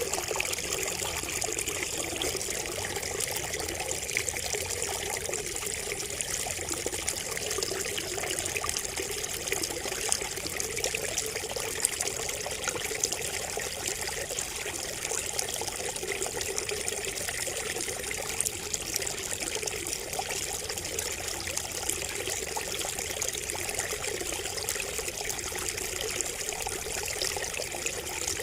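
Water trickling and splashing steadily from a bamboo spout, with a constant run of small drips and splashes.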